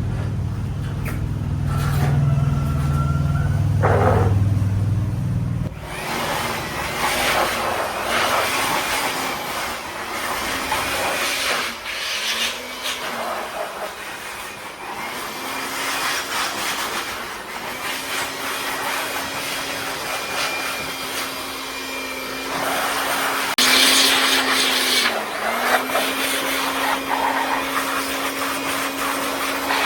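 A small electric motor running with a rough, grinding noise, its pitch dipping and recovering again and again, after a low hum in the first few seconds.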